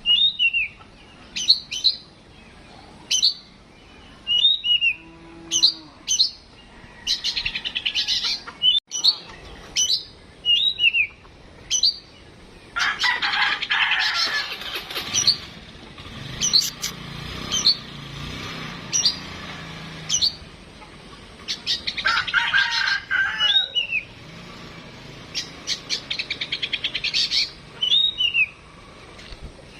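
Oriental magpie-robin (kacer) singing: a string of short, sharp whistled notes, broken by longer rapid chattering phrases, one around the middle and more near the end.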